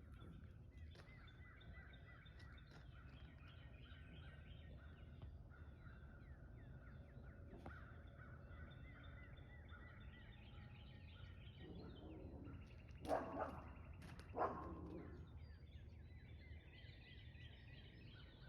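Faint outdoor chorus of small birds chirping and trilling over a low steady rumble. Two louder, harsh calls come about two-thirds of the way through.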